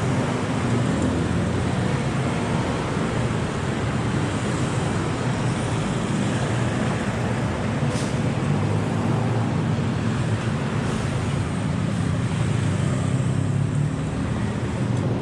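Steady city road traffic: a continuous rumble of car, bus and motorcycle engines and tyres passing, with a few faint clicks.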